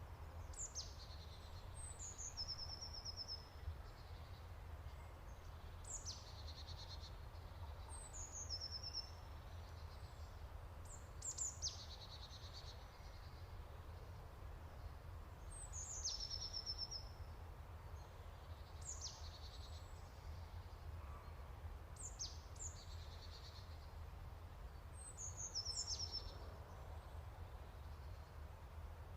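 A songbird singing the same short phrase every few seconds: a few high notes falling in pitch, ending in a quick trill. A steady low rumble runs underneath.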